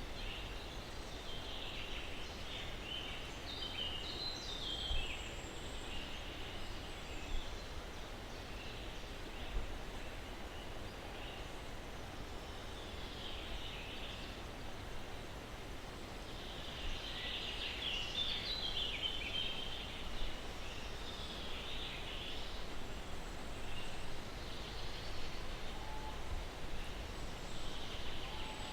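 Birds chirping in scattered bouts, some distant, over a steady soft hiss of breeze in the trees.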